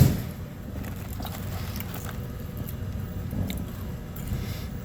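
A person chewing French fries close to the microphone, with small crunches and clicks, after a sharp knock right at the start.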